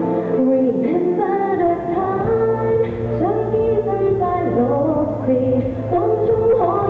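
A woman singing a pop song live over instrumental backing music.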